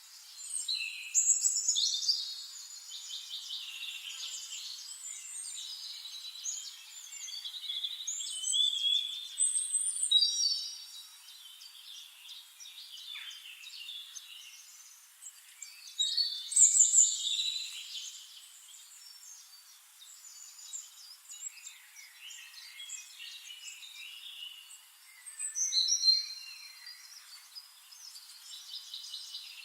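Songbirds singing, with rapid high chirps and warbled phrases. The singing swells in loud spells about 1, 9, 17 and 26 seconds in, with quieter chirping between.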